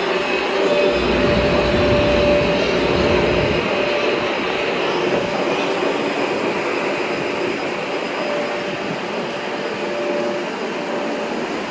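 Passenger train running at speed, heard from inside the car: a steady rushing rumble with a faint steady hum that fades in and out.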